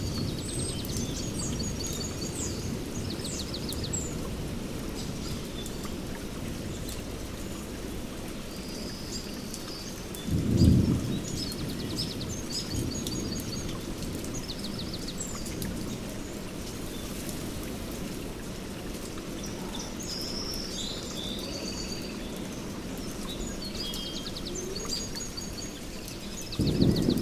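Steady rain with low thunder rumbling, swelling into a louder roll of thunder about ten seconds in and again near the end. Birds keep calling over it with short chirps and rapid trills.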